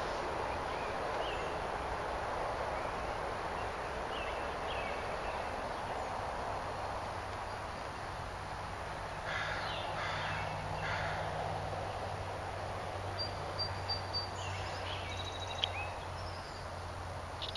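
Outdoor ambience with a steady hiss-like background. About nine seconds in, a bird gives three harsh calls in a row, and higher short chirps follow near the end.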